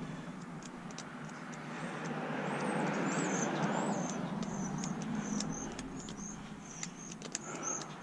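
A passing vehicle, its noise swelling a couple of seconds in and then easing off, with light clicks and a high chirp repeating about twice a second.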